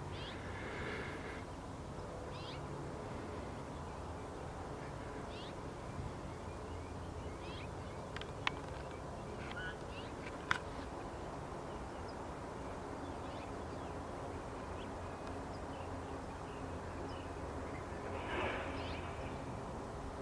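Birds chirping: scattered short calls come every second or two over a steady low background rumble, with a couple of sharp ticks midway and a louder call near the end.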